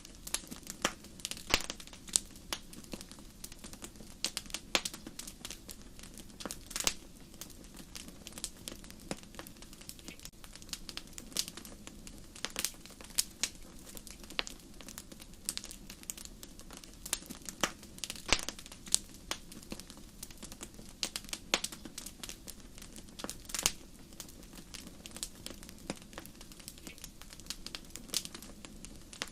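Wood fire crackling in a fireplace: irregular sharp pops and snaps, a few at a time, over a low steady hiss of burning.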